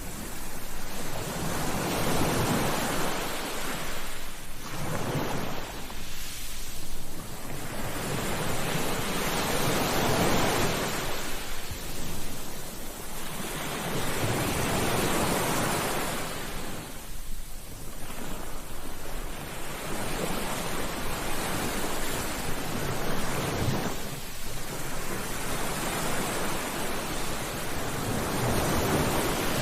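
Ocean waves breaking on a beach: the surf swells and falls back in slow surges every three to five seconds.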